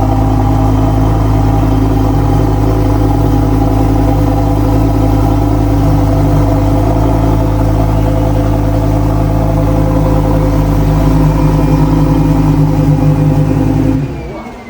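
Lamborghini Huracán EVO's 5.2-litre V10 idling steadily after a cold start, then switched off near the end, the sound dropping away suddenly.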